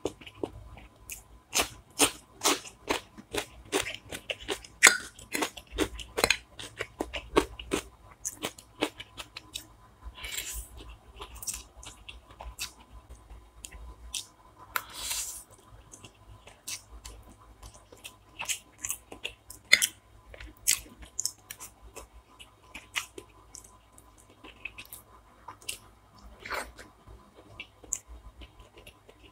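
Close-up eating sounds: a person chewing and crunching food, with many sharp crunches coming thick and fast for the first several seconds, then more spaced out.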